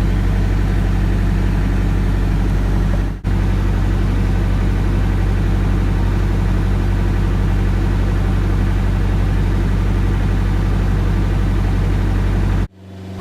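Kubota GL367 tractor's diesel engine running at a steady speed, with the cab air conditioner running to cool the cab. The sound breaks off for an instant about three seconds in and again near the end.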